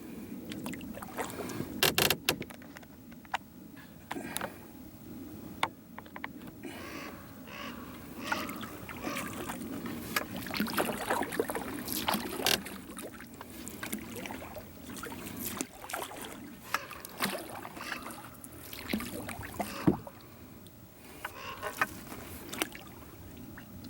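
Canoe moving through water, with water sloshing and a scatter of sharp knocks against the hull.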